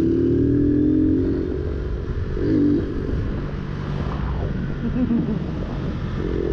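Motorcycle engine running on the move; its pitch climbs slowly and holds for the first couple of seconds, then gives way to a rougher, noisier sound with two brief rises in pitch.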